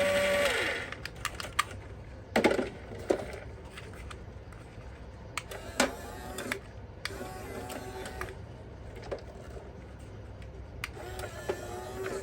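Scattered light clicks and clatter of small plastic parts being handled, with faint warbling electronic tones from the toy now and then.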